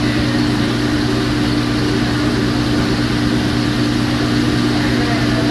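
Steady mechanical drone: a constant low hum with a second, higher hum line over an even hiss, with no change in level.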